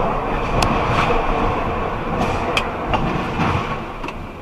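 Steady vehicle running noise, a low hum, with scattered sharp clicks and knocks.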